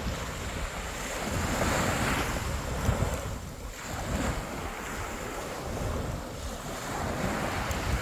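Sea waves washing ashore in swells, with wind buffeting the microphone in low rumbling gusts.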